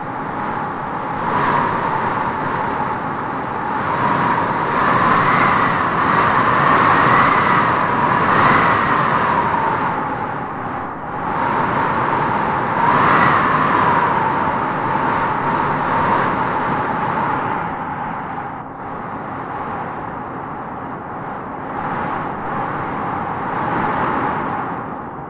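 Wind howling in gusts: a steady rush with a whistling tone that swells, rises and falls, loudest from about four to nine seconds in and again around thirteen seconds.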